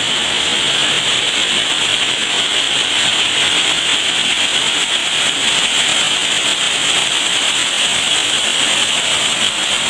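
Waterfall rushing: a loud, steady roar of falling water, unchanging throughout.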